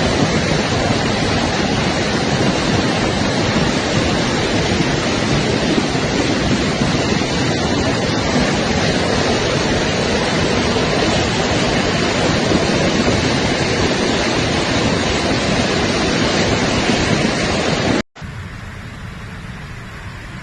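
Floodwater rushing past in a loud, steady roar of noise. It cuts off suddenly near the end, giving way to a much quieter steady background.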